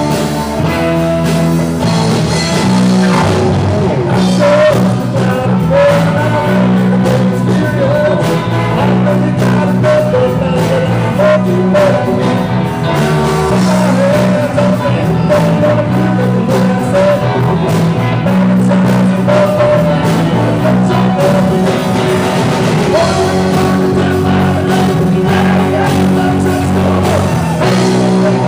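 Rock and roll music played by a band with drum kit, bass and guitar, running steadily throughout.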